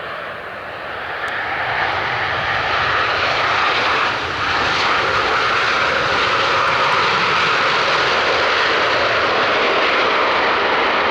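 Jet airliner's engines, loud and steady, growing louder over the first few seconds and then holding level.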